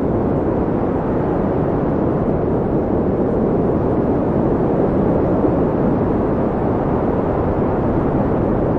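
Steady wind: a deep, even rushing noise with no gusts or breaks.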